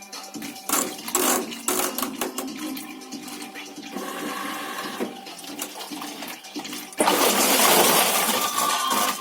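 Water sloshing in a washing machine, with rattling clicks like small hard objects knocking about, then a loud rush of water about seven seconds in that lasts about two seconds.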